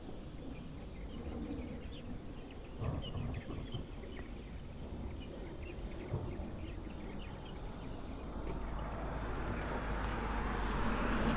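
Quiet outdoor background with faint, scattered bird chirps. From about eight seconds in, a vehicle's engine noise grows steadily louder.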